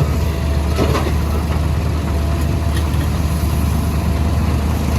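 Caterpillar backhoe loader's diesel engine running steadily, with a faint knock about a second in.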